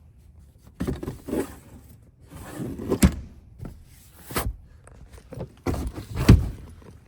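Rustling handling noises broken by three sharp thunks, each about a second and a half apart; the last is the loudest.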